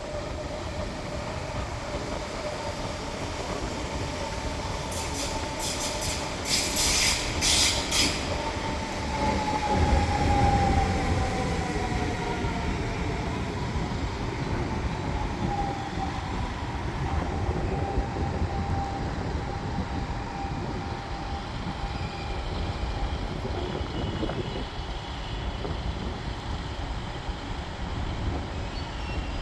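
C651 electric train moving through the station, its traction motors whining in tones that glide down in pitch from about 9 to 16 s in, over a steady rumble of wheels on rail. A few short sharp hisses come about 5 to 8 s in.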